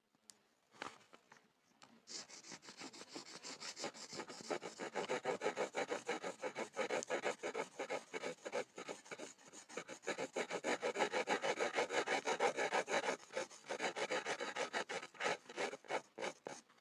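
Pencil scribbling rapidly on a wooden board, a continuous scratching of quick back-and-forth strokes that starts about two seconds in and eases briefly near the end.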